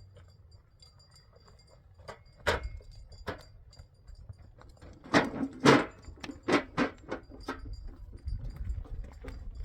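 A run of irregular sharp knocks and clacks from hard objects striking each other. They start about two seconds in and crowd together loudest about five to seven seconds in.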